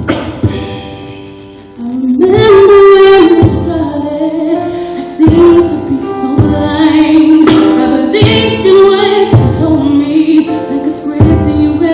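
A woman singing a held, gliding melody over a steady percussive beat. The beat is likely beatboxed, since beatboxing was tagged just before.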